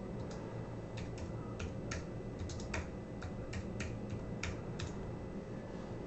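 Typing on a computer keyboard: irregular keystroke clicks, about fifteen of them in uneven runs, stopping shortly before the end.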